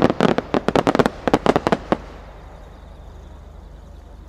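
Aerial firework shell's many small sub-bursts popping in a quick, irregular string. The pops stop about two seconds in.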